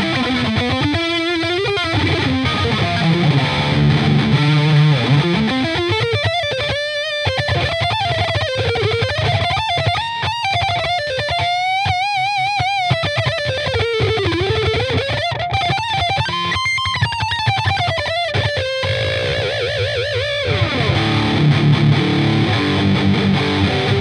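High-gain distorted electric guitar heard through a Marshall 4x12 cabinet impulse response. Low chugging riffs at the start and end frame a lead line in the middle, full of wide vibrato and sliding bends, with a long falling glide just before the chugging comes back.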